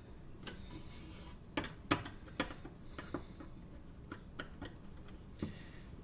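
Scattered light clicks and taps, about eight at uneven intervals, from hands working the screws and parts of an automatic chicken coop door as it is taken apart.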